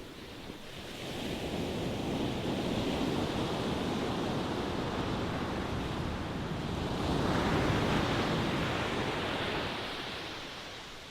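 Ocean surf: a long rush of wave noise that swells about a second in, surges again around eight seconds, and ebbs away near the end.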